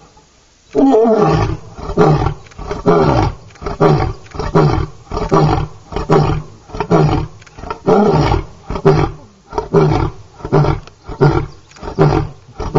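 Lion roaring: one long, deep roar about a second in, then a long, regular run of short grunting roars, about one and a half a second, the usual close of a lion's roaring bout.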